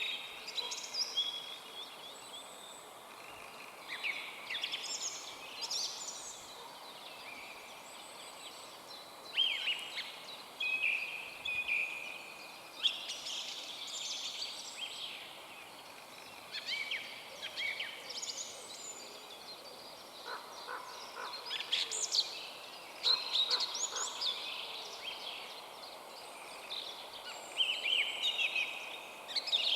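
Several forest songbirds singing, with short high whistled and trilled phrases coming every few seconds and overlapping, over a faint steady hiss.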